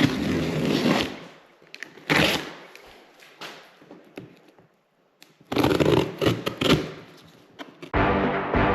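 Irregular bursts of knocking and rustling, separated by quiet gaps, then background music begins near the end.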